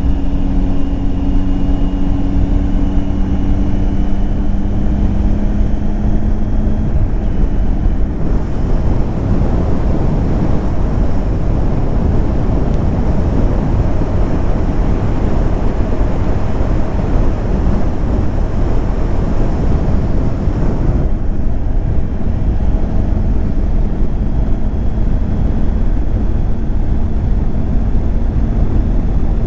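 Triumph Tiger 800 XCX's three-cylinder engine running at a steady pace while the motorcycle is ridden, heavily mixed with wind noise on the microphone. The engine note sinks under the wind after about seven seconds and comes back faintly near the end.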